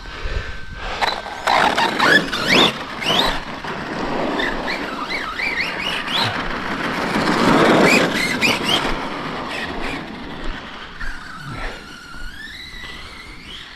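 Electric motors of RC bashing trucks whining up and down in pitch in quick bursts as they are driven hard, over rough running noise. Loudest about eight seconds in, with a quieter whine toward the end.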